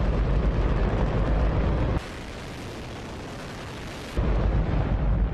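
Hydrogen-oxygen rocket engine firing on a test stand: a very loud, steady rush of noise with a heavy low rumble. From about two seconds in, for roughly two seconds, it turns quieter and thinner without the rumble, then comes back at full strength.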